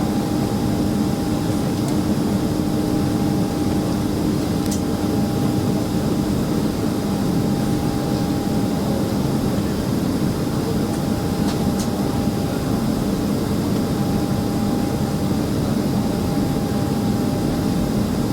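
Steady cabin noise inside a Boeing 767-300ER jetliner: the drone of its jet engines and the rush of cabin air, with a low hum and a higher steady tone running through it.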